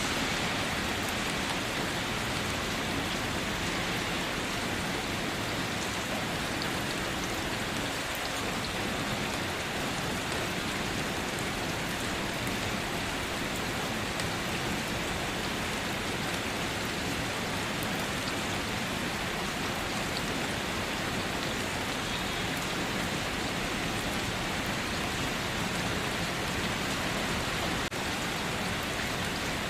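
Steady rainfall, a dense even hiss with close drops pattering on surfaces throughout.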